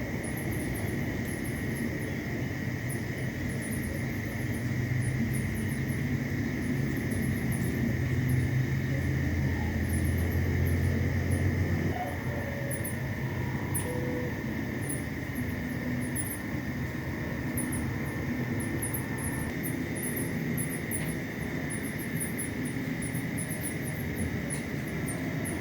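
Night insect chorus: a steady shrill trilling with many rapid, very high chirps over it. A low rumble underneath drops away about halfway through.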